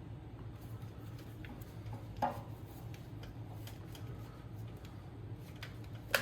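Small scattered clicks and clinks of tools and metal engine parts being handled, with a louder clatter about two seconds in and a sharp click near the end, over a steady low hum.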